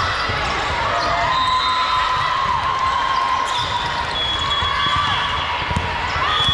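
Athletic shoes squeaking on a gym court floor during volleyball play, several overlapping squeaks and short gliding chirps, with a few thuds over a dense background din.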